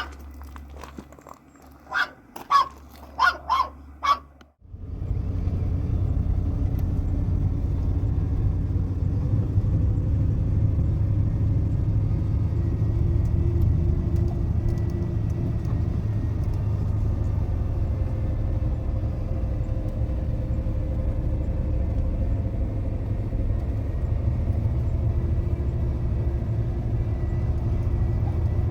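A few short sharp sounds, then a sudden switch to the steady low rumble of a truck driving, heard from inside the cab with road and engine noise.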